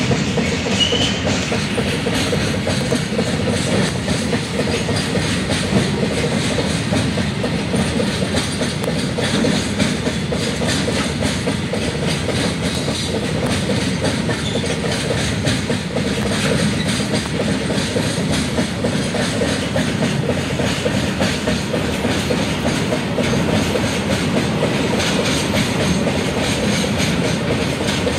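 Freight train of open-top wagons rolling past close by: a steady rumble with a continuous rapid clatter of steel wheels on the rails.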